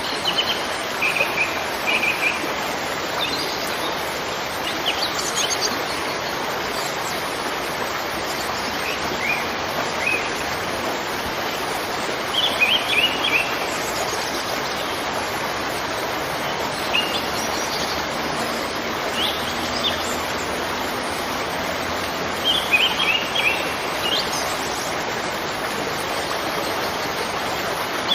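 Steady rush of a waterfall, with birds chirping in short quick bursts every few seconds over it.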